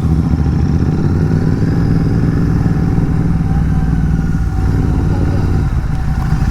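Royal Enfield Continental GT 650's 648 cc parallel-twin running through an aftermarket AEW megaphone exhaust at a steady riding pace, its note falling away a little near the end.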